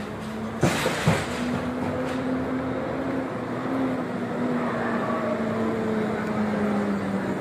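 A long held horn-like tone lasting about six seconds, its pitch wavering slightly, after two sharp knocks about a second in.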